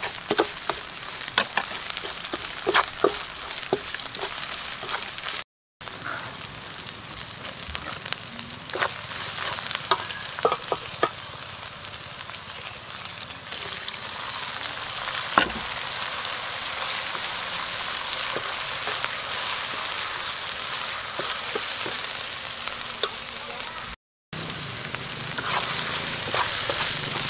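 Spice paste frying in a wok, with a spatula scraping and knocking against the pan in sharp clicks. About halfway through, after liquid is poured in, the sizzling turns louder and steadier.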